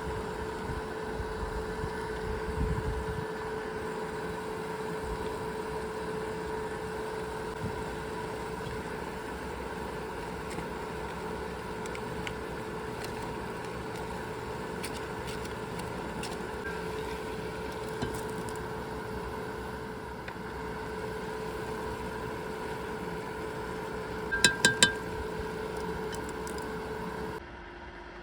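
A steady machine hum, with a quick run of four loud, high beeps near the end; the hum cuts off abruptly just before the end.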